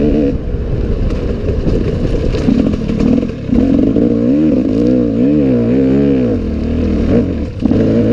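Enduro motorcycle engine revving up and down as the rider works the throttle. It eases off briefly about three seconds in and again near the end.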